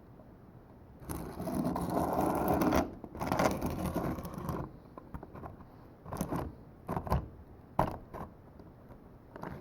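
Small model railroad track parts on an HO scale manual turntable being worked by hand: two stretches of scraping as rail joiners are slid into place, then several sharp clicks as the parts seat.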